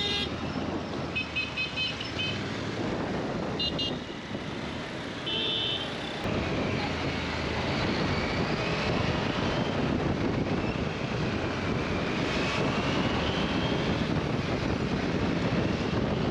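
Busy city street traffic: several short horn beeps in the first six seconds, then a steady din of engines and road noise.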